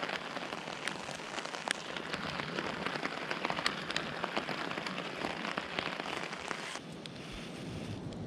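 Steady rain, with many sharp single drops striking close by over the even hiss. About seven seconds in it becomes a little quieter and duller.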